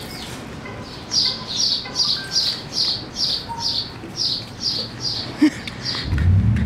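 A small bird chirping over and over, about two or three short high chirps a second. A low rumble comes up near the end.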